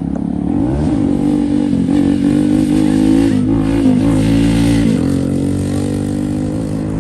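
Car engine running close by. It revs up about a second in, blips its throttle around three to four seconds in, then holds a steady note.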